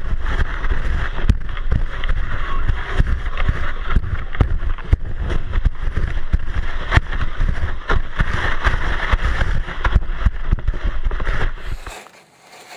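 Sled running fast over packed snow, heard through a camera mounted on the sled's front: a continuous rumble and hiss with many sharp knocks from bumps in the track. It stops abruptly near the end.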